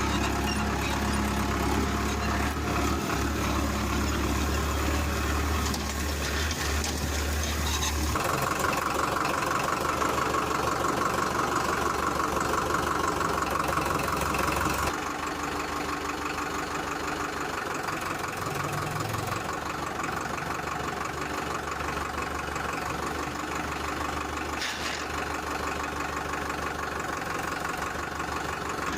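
Tractor engine running steadily. Its sound changes abruptly about eight seconds in and again about fifteen seconds in.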